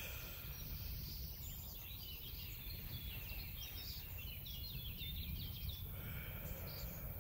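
Small birds chirping outdoors: a run of short, high calls starts about a second and a half in and fades out near six seconds, over a low, steady background rumble.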